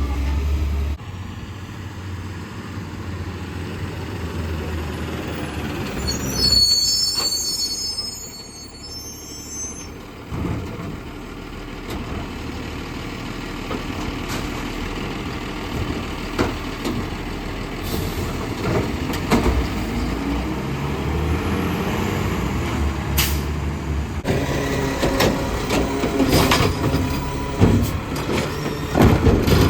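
Garbage truck's engine running, with a high brake squeal and air hiss about seven seconds in and scattered sharp knocks in the second half, busiest near the end.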